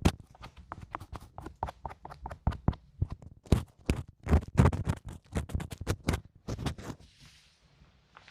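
Close-miked ear-cleaning ASMR: an ear pick or swab scratching and clicking in a microphone's ear, a dense, irregular run of sharp scratches. It eases into a faint soft brushing hiss near the end.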